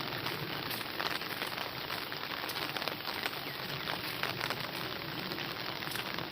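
Steady rain falling, a dense even hiss of many small drop ticks.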